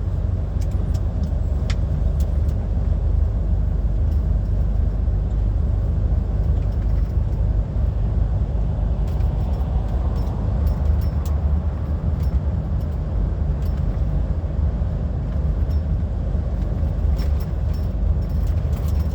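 Steady low drone of an HGV's diesel engine and road noise heard inside the cab while driving, with a few faint light clicks and rattles.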